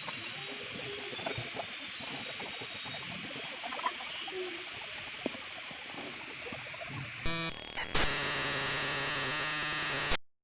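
Steady background hiss with a few faint clicks. About seven seconds in, it gives way to a loud, harsh electronic sound of many steady tones, like a synthesizer sting, which cuts off abruptly about three seconds later.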